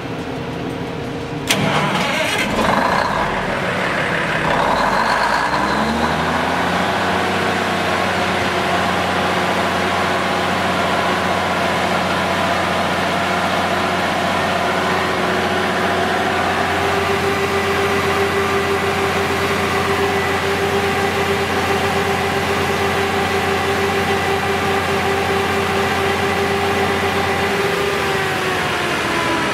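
Cummins 855 six-cylinder diesel engine of a 400 kW generator set being cranked and catching about a second and a half in. It then runs up in speed over several seconds and settles into a steady run, with its pitch starting to drop near the end.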